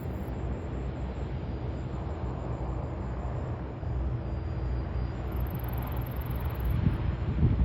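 Jet airliner engines running, a steady low rumble with a faint steady whine in it, growing a little louder near the end.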